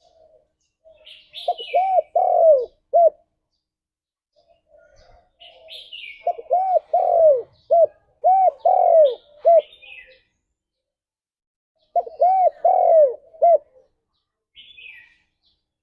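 Spotted dove cooing: three phrases of repeated arched coo notes, each a couple of seconds long, spaced a few seconds apart. Short higher-pitched chirps come between the phrases.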